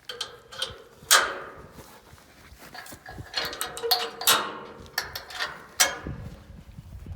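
Metal clanking and rattling: a series of sharp knocks, the loudest about a second in, several of them ringing briefly.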